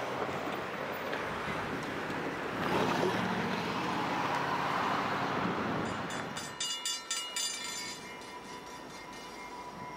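Freight train running, a steady rumble and rush that eases off about six seconds in, after which several steady high tones ring on.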